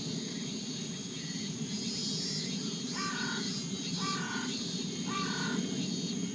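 A bird calls three times, about a second apart, over steady high-pitched insect chirping and a low, even rushing noise.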